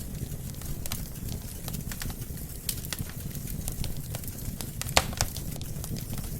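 Wood fire burning in a fireplace: a steady low rumble of flames with irregular crackles and pops from the logs, the sharpest pop about five seconds in.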